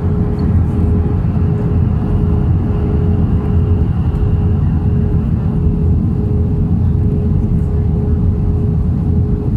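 Airplane's steady engine drone, a loud low rumble with a constant hum on top that holds without rising or falling.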